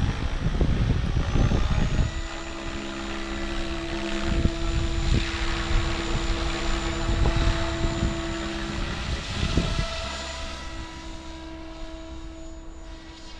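Electric RC helicopter flying just after lift-off: a loud rush of rotor and wind noise at first, then a steady rotor buzz and motor whine that fade slowly as the helicopter moves away.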